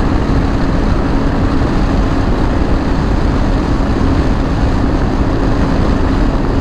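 Yamaha Ténéré 700's parallel-twin engine running at a steady cruising speed, with a constant engine tone under heavy, even wind and road noise.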